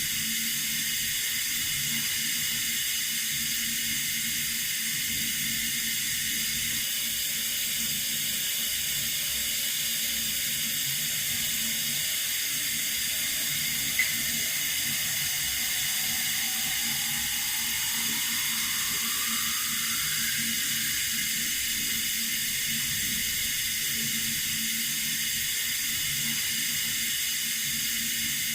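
Water running steadily from a tap, an even hiss, with one small click about halfway through.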